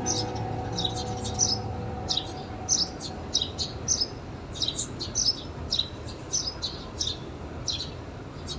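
A small bird chirping over and over: short, high chirps that fall in pitch, about two to three a second.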